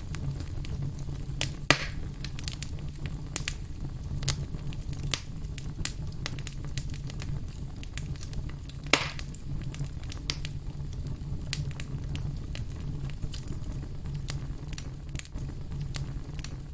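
Burning firewood crackling: frequent sharp pops and ticks over a steady low rumble of the flames, with two louder pops, one about two seconds in and another about nine seconds in.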